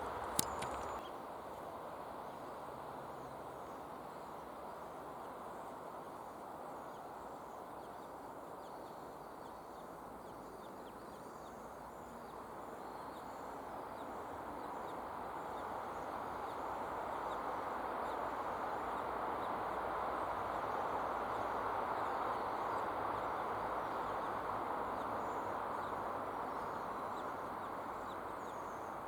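Outdoor ambience: a steady rushing background that swells to its loudest about two thirds of the way through and then eases, with faint, scattered high bird chirps. A brief click comes just after the start.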